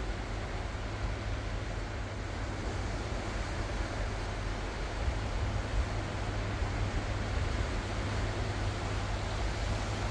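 Ocean waves washing in without a break, a steady rush of surf with a low rumble underneath that grows a little louder about halfway through.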